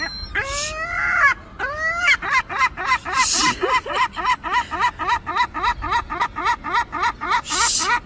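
An animal calling: two long drawn-out calls that rise and fall, then a fast, even run of short calls, about three a second.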